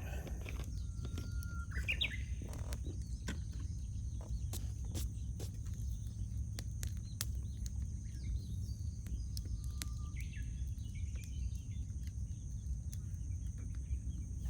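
Wood campfire crackling, with frequent sharp pops scattered throughout. Birds call briefly, about two seconds in and again around ten seconds in.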